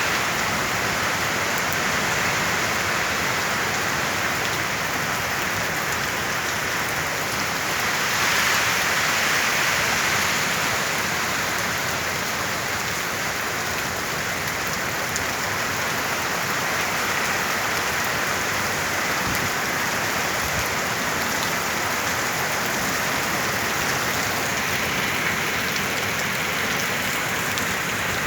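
Storm rain falling steadily on surfaces, an even hiss that swells a little about eight seconds in.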